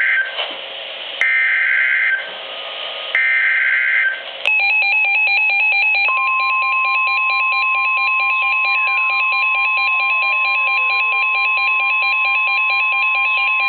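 NOAA Weather Radio alert for a tornado warning, on a Reecom weather radio receiver. First come the end of one SAME digital header burst and two more, each a harsh warbling data screech about a second long. Then a fast pulsing beep starts, joined about six seconds in by the steady 1050 Hz warning alarm tone.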